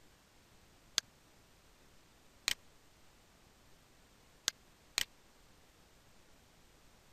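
Computer mouse buttons clicking: four sharp clicks, the last two about half a second apart.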